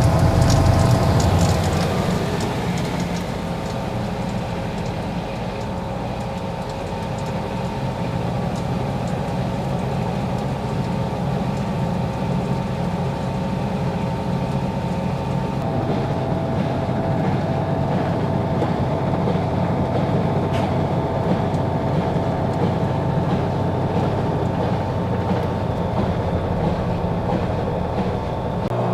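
RCA RPW160-B compact portable washing machine running mid-cycle, a steady motor hum, with a higher tone joining about halfway through.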